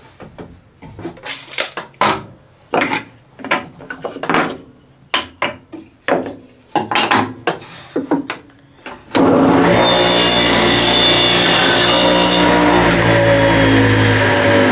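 Rasping strokes on wood, about one every half second to second, like a board being worked by hand. About nine seconds in an electric saw motor starts abruptly and runs loud and steady, with a high hiss for its first few seconds as it cuts.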